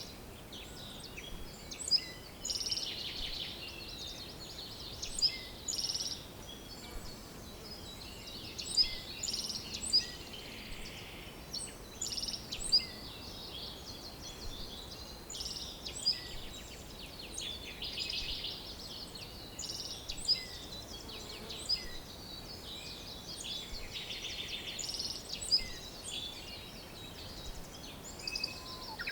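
Several songbirds singing and chirping together, with many short, high calls and trills overlapping and a sharp chirp every second or two.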